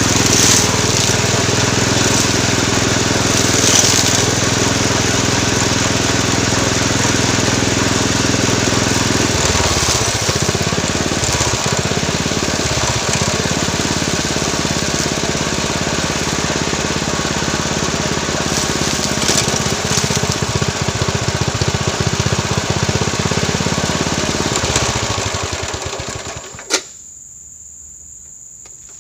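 Small petrol engine of a homemade push grass cutter running fast. From about a third of the way in, its pitch repeatedly dips and recovers as the engine bogs under load cutting grass. Near the end the engine sound drops away suddenly, followed by a single sharp click.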